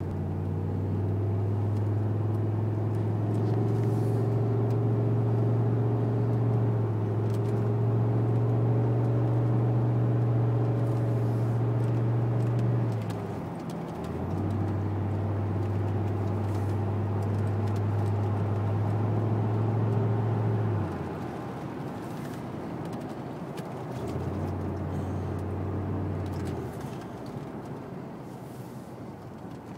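1995 Cadillac STS's Northstar V8 heard from inside the cabin as a steady low drone at a constant pitch while driving. The drone drops away briefly about 13 s in, again about 21 s in and near the end, as the throttle is eased off, then comes back.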